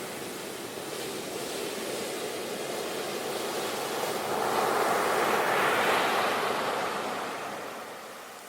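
Sea waves breaking on the shore: the wash swells to its loudest about halfway through and then draws back, fading near the end.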